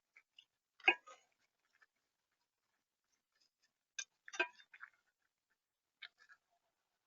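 Sharp taps and clicks on the feeder right by the microphone: one loud knock about a second in, a quick cluster of taps around four seconds, and a couple of light ticks near the end, as of a visitor pecking seed and shifting on the feeder tray.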